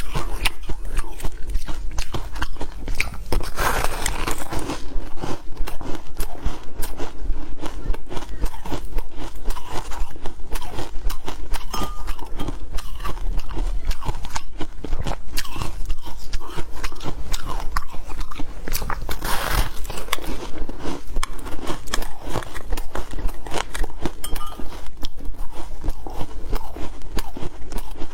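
Ice being bitten and chewed close to the microphone: a dense, continuous crunching and crackling, with a few louder bites.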